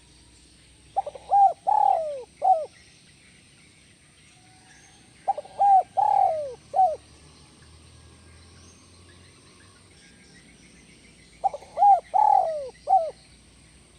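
Spotted dove (tekukur) cooing: three song phrases about five seconds apart, each a few quick short notes, a long falling coo and one short closing "kuk" note, the "kuk 1" ending that keepers prize.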